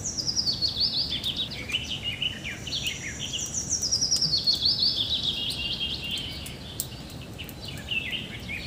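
A songbird singing: quick chirps that step down in pitch, in two long descending runs and then shorter phrases, over a low steady outdoor background noise with a few faint clicks.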